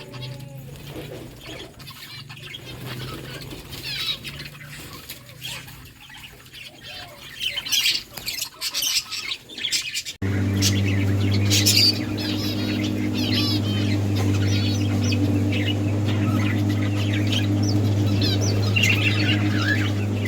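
Budgerigars chirping and chattering in short high calls with scattered clicks. About halfway through, a steady low hum starts abruptly and runs under the chirping.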